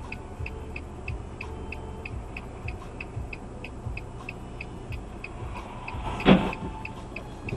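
A car's indicator ticking steadily, about three clicks a second, over low engine and road rumble inside the cabin. About six seconds in comes a single loud thump.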